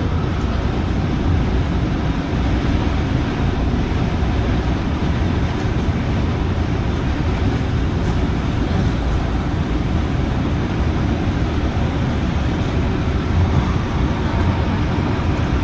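CAF-built MTR Tung Chung line train running, heard inside the carriage: a steady rumble of wheels and running gear with faint steady tones.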